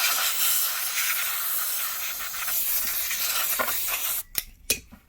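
Can of compressed air spraying in one long hissing blast to blow dust out of a PS4's fan and heatsink, cutting off about four seconds in. A couple of short knocks follow near the end.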